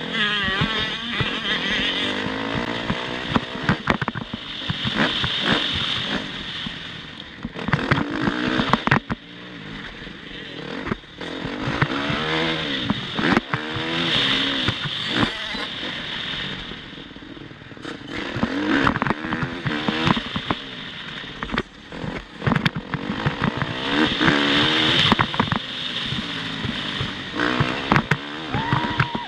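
Motocross bike engine revving up and dropping back again and again as it is ridden around the track, with many sharp knocks and clattering.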